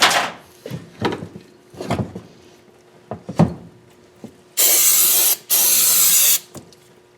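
A few short knocks and scrapes of tools being handled, then two loud hissing blasts of pressurised spray, each about a second long.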